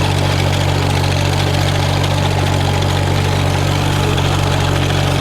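Farmall H tractor's four-cylinder engine running steadily at work, pulling a sickle bar mower through a field.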